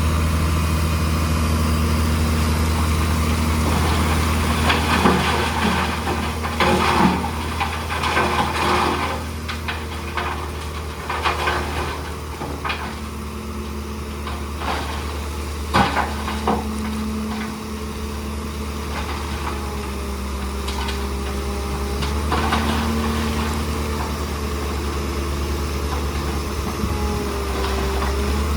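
Heavy diesel engine of earthmoving machinery running steadily at a low, even pitch. Through the first half, sharp knocks and clattering of stones break in repeatedly.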